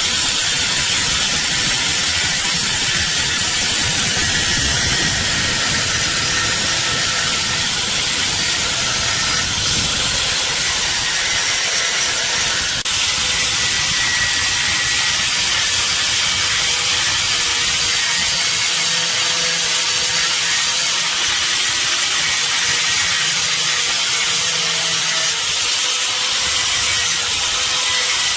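Power tool running steadily on metal, a high thin whine over a continuous rasping noise.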